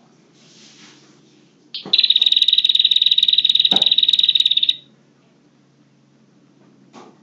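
Prenjak (prinia) lure call: one loud, rapid, buzzy trill of high notes, starting about two seconds in and lasting about three seconds.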